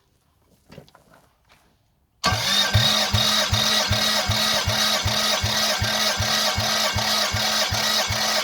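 Toyota 1MZ V6 engine running, starting abruptly about two seconds in, with a steady hum and a regular low pulse about two and a half times a second.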